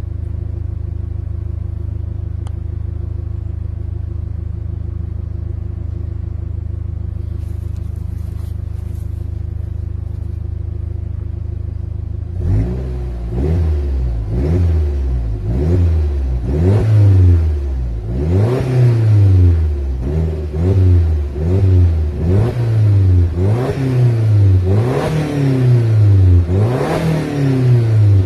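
Audi S3 8L's warm 1.8-litre turbocharged four-cylinder (BAM) running through an aftermarket Milltek exhaust, idling steadily at first. About halfway through it starts being revved in repeated blips, each rising and falling, about one a second.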